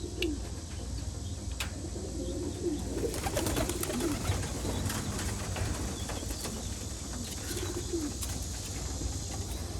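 Domestic pigeons cooing, many short low coos overlapping, with a flurry of clicks, rustles and wing flaps about three to five seconds in and a steady low hum underneath.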